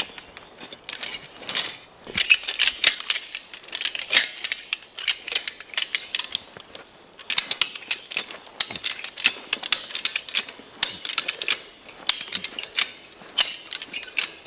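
Quick, irregular metallic clicking and clinking of fence wire being worked with a hand tool during a splice, pausing briefly about halfway.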